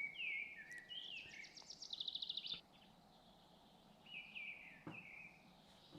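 Birds calling: several short calls that slide downward in pitch, and a quick run of high repeated notes in the first half, over a faint steady outdoor background.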